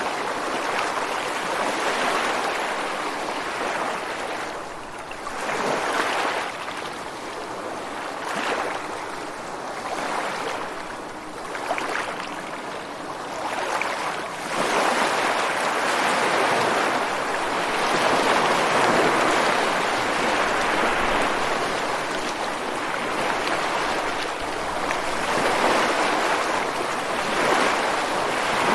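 Ocean surf washing ashore and breaking against rocks, a continuous wash of water that ebbs and swells, with a lull in the middle and a fuller surge from about halfway through.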